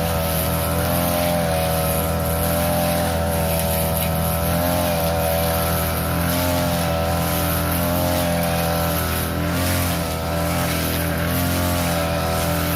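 Small petrol engine of a grass-cutting machine running at high speed, its pitch wavering slightly up and down as the load changes while it cuts overgrown grass and weeds.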